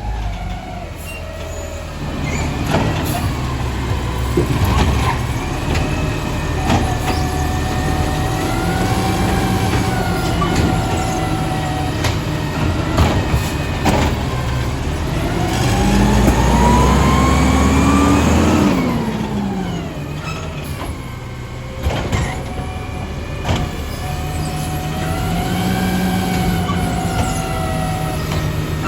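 Garbage truck's diesel engine running, with sharp metal clanks and knocks and a steady whine. About two-thirds of the way through, the engine revs up with a rising whine, then falls back.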